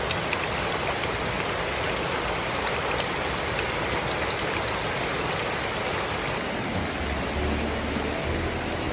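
Steady rain falling, an even hiss with scattered little drop ticks. Music comes in faintly near the end.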